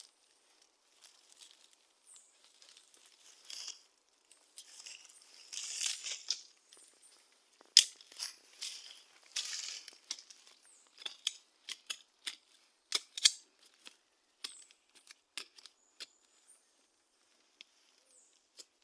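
Dry rustling and crackling with many scattered sharp snaps and clicks. The rustling swells loudest about six and ten seconds in, with a single sharp crack near eight seconds.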